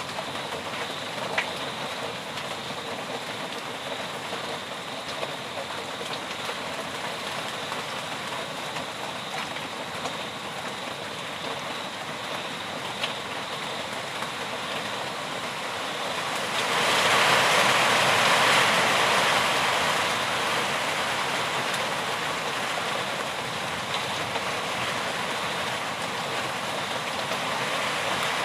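Steady rain falling, an even hiss with a few sharp drip ticks. About seventeen seconds in it swells louder for a few seconds, then eases back.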